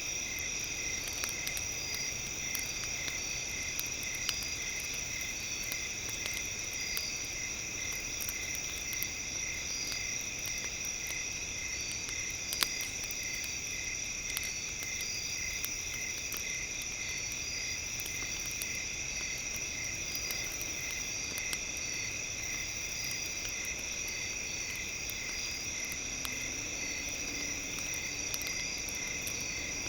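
Crackling campfire with scattered sharp pops, one louder pop a little before the middle, over a steady chorus of insects trilling in several high-pitched, evenly pulsing tones.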